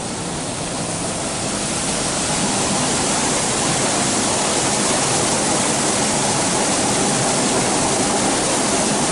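Spring barley pouring from a grain store spout onto the heap: a steady rushing hiss that grows louder over the first couple of seconds, then holds.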